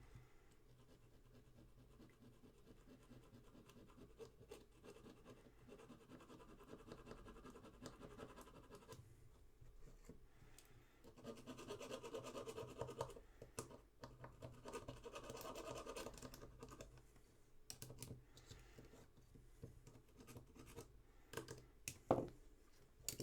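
Quiet, rapid scratchy scrubbing on a small part of a Willys MB headlight switch, in two spells of fast strokes, followed by a few sharp clicks near the end.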